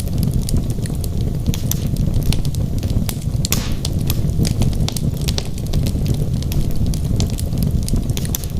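Wood logs burning in a fireplace: frequent sharp crackles and pops, several a second at irregular intervals, over a steady low rumble of the fire.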